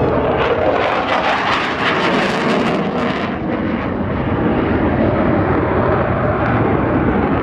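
Jet aircraft of an aerobatic display team flying past, loud and steady, with a high hiss for about the first three seconds that then fades to a duller rumble.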